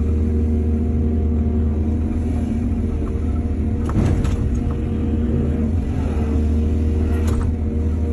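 Excavator diesel engine running steadily, with two short bursts of clanking, about four seconds in and again near the end.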